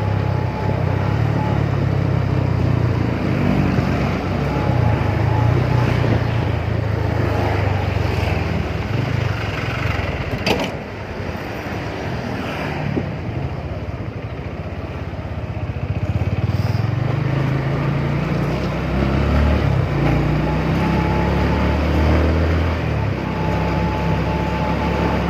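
Motorcycle engine running while riding, with road and wind noise. It eases off about ten seconds in and picks up again with rising engine pitch a few seconds later. There is a single sharp click near the middle.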